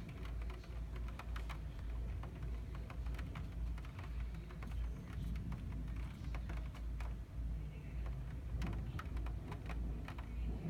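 First scattered raindrops of a summer thunderstorm, ticking irregularly several times a second over a steady low rumble.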